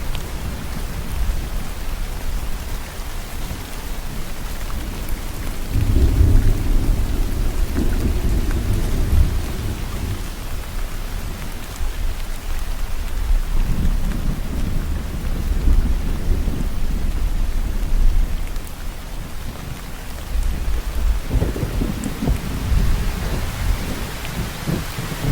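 Steady rain falling, with low rolling thunder that swells about six seconds in and again twice later.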